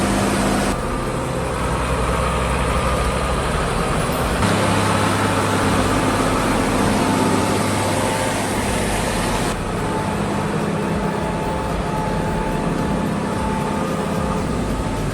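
Heavy diesel tractor engines running steadily under load, the engine sound changing abruptly three times, about a second in, near the middle and near ten seconds.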